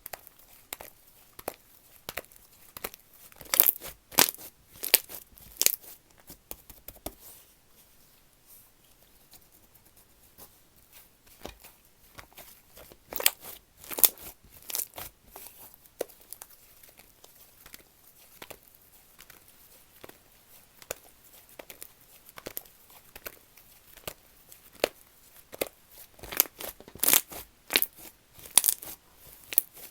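Slime being pressed, stretched and folded by hand, making sharp crackling pops and clicks. They come in dense clusters about four seconds in, around thirteen to fifteen seconds, and again near the end, with scattered clicks between.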